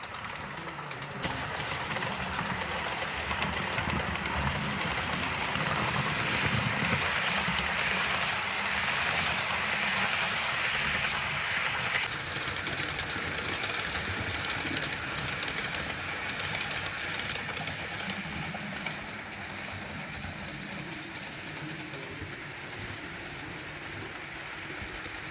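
Model train running along a layout: a steady rumble and hiss that grows louder about a second in and drops back abruptly about twelve seconds in.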